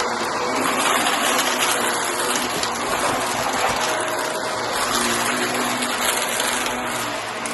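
Shark vacuum cleaner running steadily, its motor and airflow a constant rushing noise with a faint steady hum underneath.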